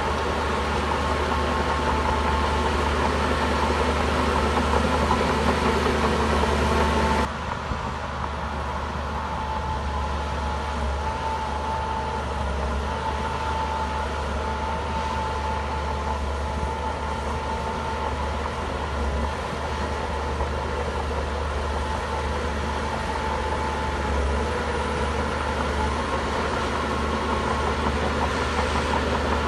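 Shantui bulldozer's diesel engine running steadily, with a deep low hum and a steady high whine over it. The sound drops abruptly about seven seconds in, then carries on at a slightly lower level.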